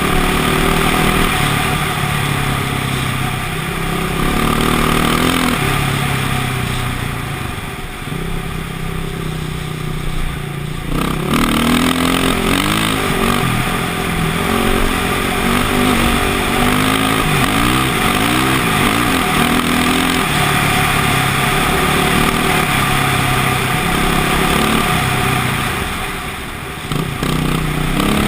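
KTM motocross bike engine revving up and down as the throttle is opened and closed over and over. It eases off for a few seconds about a third of the way in and again briefly near the end, with quick rising and falling revs in between.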